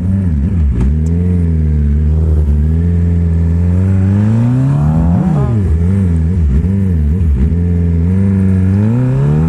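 Motorcycle engine under way, holding steady revs, then climbing about four seconds in. The revs drop sharply at a gear change just past five seconds, hold steady, and rise again near the end.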